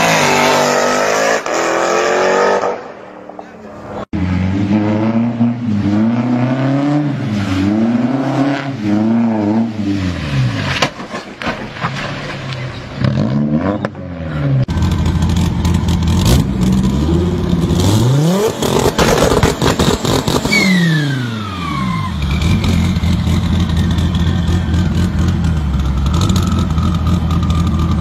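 Performance car engines in quick succession: an engine revs up hard as a Jeep Grand Cherokee Trackhawk accelerates away, then an engine is revved up and down again and again as a car drifts on a wet lot. After a cut, a deep engine idles steadily with one big rev up and back down a few seconds later.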